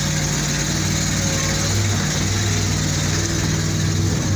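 Armoured personnel carrier's engine running steadily under way, a constant low engine note with heavy mechanical noise over it.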